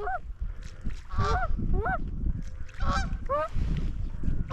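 Canada goose honks, several short rising-and-falling calls coming in quick clusters, over a low rumble.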